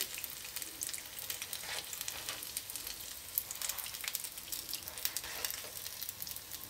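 Potato pancakes frying in hot oil in a frying pan: a steady sizzle with many small crackling pops.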